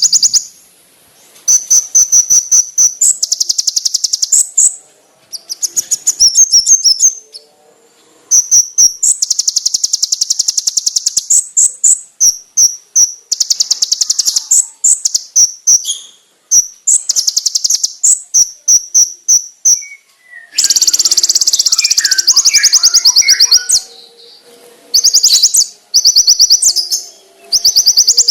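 Konin ('kolibri ninja') sunbird singing: loud, high, very fast trills and runs of sharp chirps in bursts of one to three seconds, broken by short pauses. Softer, lower twittering comes in under it about two-thirds of the way through.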